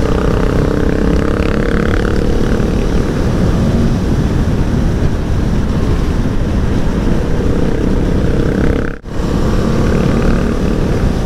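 Aprilia Tuono V4 1100 Factory's V4 engine running steadily under way, with loud wind roar over the microphone from riding at speed. The sound briefly drops out about nine seconds in.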